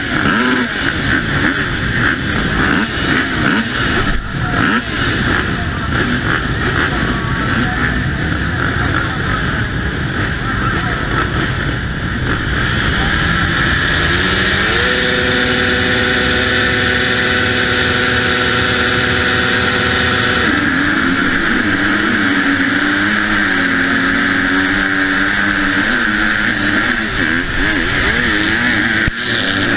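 Husqvarna motocross bike engine heard from the rider's helmet camera, its revs rising and falling unevenly. About halfway through the revs climb to a steady held note for several seconds, then the note breaks up and wavers again.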